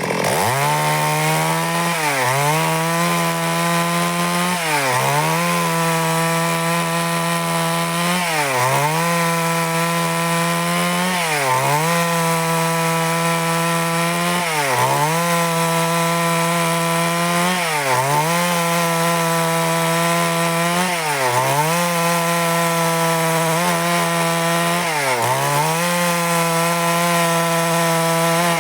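Stihl MS 382 two-stroke chainsaw running at high revs while ripping a log lengthwise into boards. Its engine note dips briefly and climbs back about every three seconds, eight or nine times in all.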